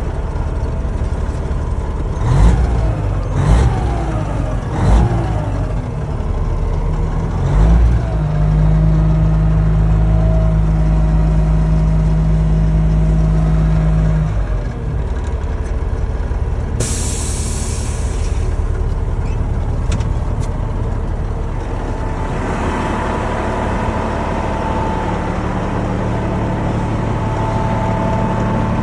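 Caterpillar 3406B diesel engine of a 1991 International Eagle dump truck, revved in three quick blips, then held at raised revs for about six seconds before dropping back to idle. A short burst of air hiss comes about two-thirds of the way through.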